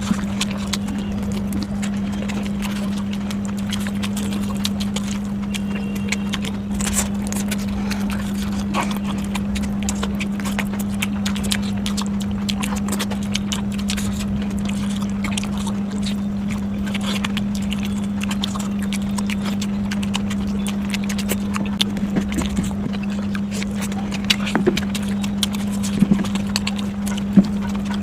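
Close-up eating sounds: scattered small clicks and smacks of chewing over a steady low hum.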